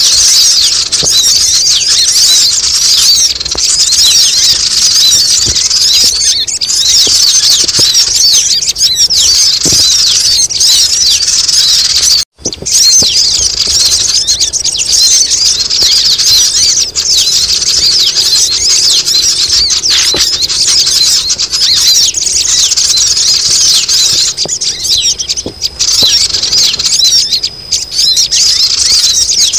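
Dense, noisy chorus of many sogon birds chattering and squealing at once, a lure call used to bring wary sogon down. The high-pitched calling runs thick and unbroken except for a split-second cut-out about twelve seconds in.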